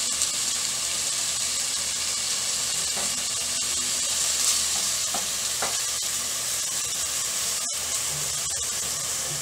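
Fresh tuna pieces with sautéed tomato, onion, garlic and ginger sizzling steadily in hot oil in an aluminium pot, a constant high frying hiss.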